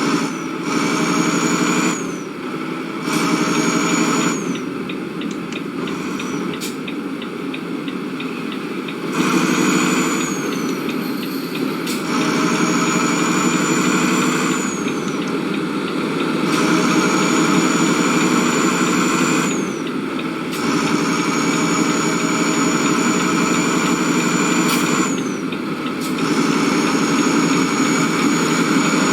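A vehicle's engine running steadily, heard in short stretches that cut abruptly every few seconds, each with a high whine that rises and falls.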